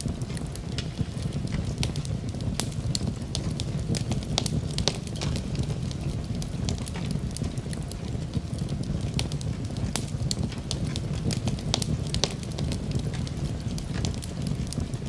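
Fireplace fire crackling, with frequent sharp pops over a steady low rumble.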